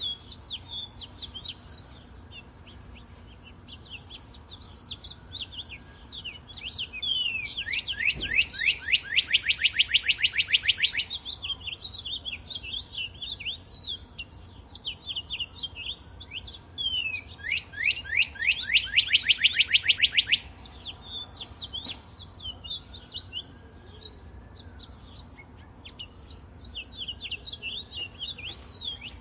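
Songbirds chirping, many short high calls overlapping, with two loud trills of fast, evenly repeated notes, each about three seconds long, about a third of the way in and again past the middle.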